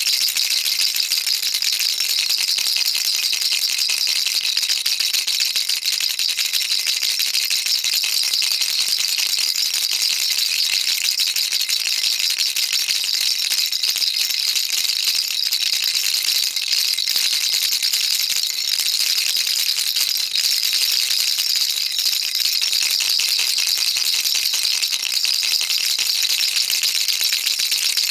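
Baby rattle shaken continuously, its beads clattering in a dense, even, high-pitched hiss of rapid clicks with no pauses.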